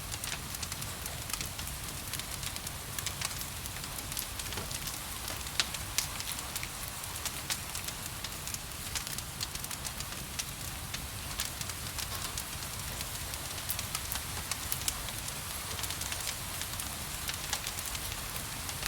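Wood fire crackling with scattered sharp pops over a steady hiss of gentle rain.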